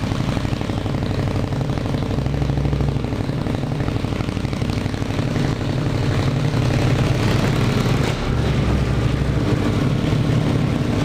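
Indian Scout's V-twin idling fast at about 1400 rpm while it warms up from a cold start, through a new stainless-steel exhaust tip that is noisy. The engine runs at a steady, even beat and gets a little louder about halfway through.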